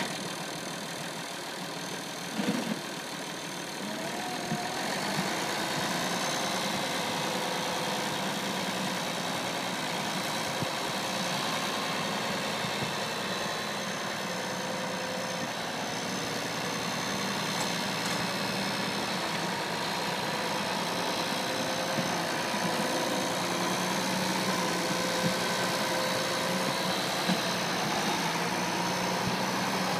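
International Harvester 1486's six-cylinder turbocharged diesel engine running steadily, settling a little louder a few seconds in.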